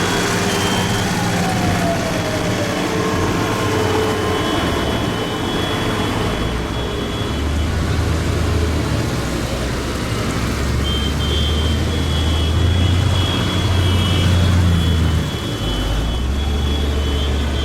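Tractors driving past one after another, their engines making a steady low drone that grows louder about halfway through and dips briefly near the end.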